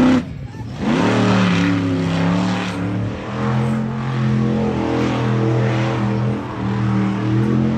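A motor vehicle engine at a monster truck and motocross show. A rev cuts off in the first moment, then the engine comes back up about a second in and runs loud and steady, its pitch dipping and rising only slightly.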